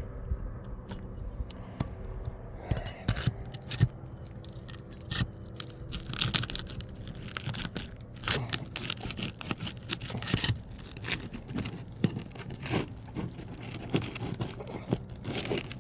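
A roof shingle being pried up in a repairability test: irregular scraping, crackling and tearing as the sealed shingle is forced loose, the shingle beneath tearing, the sign that this slope cannot be repaired.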